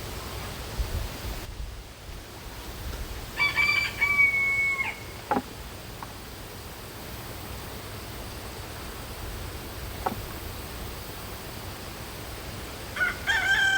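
A rooster crowing: one held crow about three and a half seconds in, and another beginning near the end. A couple of single light knocks fall in between.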